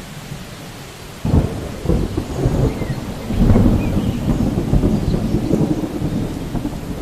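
Steady rain with a thunderclap just over a second in, rolling on as a low rumble that is loudest near the middle and slowly dies away.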